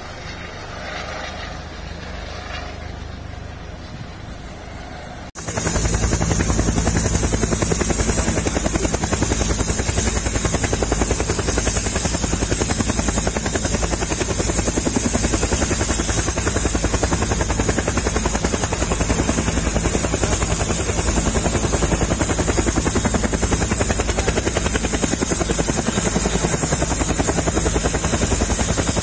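Helicopter running on the ground, with a fast, even rotor beat and a steady high turbine whine. The first five seconds or so are quieter, then the loud rotor sound starts abruptly.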